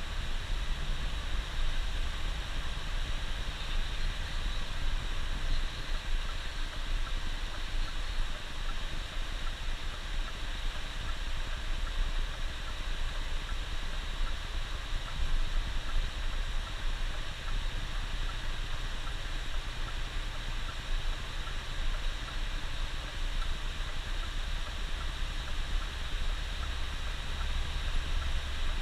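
Coach bus driving on the highway, heard from inside: a steady low engine rumble under an even hiss of tyres on a wet road.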